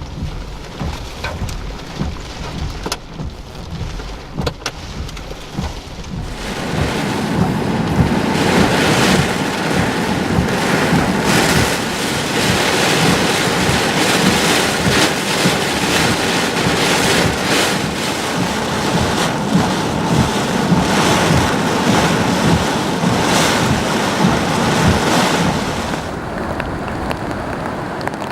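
Hurricane wind buffeting the microphone, then from about six seconds in heavy, steady wind-driven rain that eases somewhat near the end.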